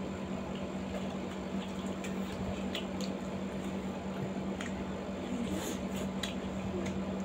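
Chewing of chicken momos and spicy ramen noodles: soft wet mouth sounds with a few faint clicks, over a steady low hum.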